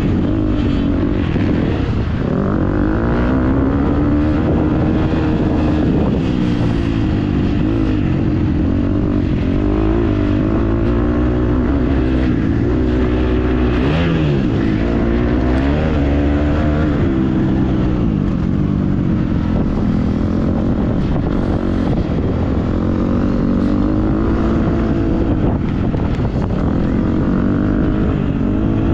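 Motocross dirt bike engine revving up and down again and again as it is ridden hard around the track, its pitch rising and falling with throttle and gear changes.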